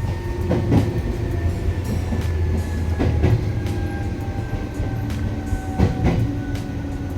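Electric passenger train running on the rails: a steady low rumble with repeated clicks of the wheels over the track, and a faint whine that slowly falls in pitch.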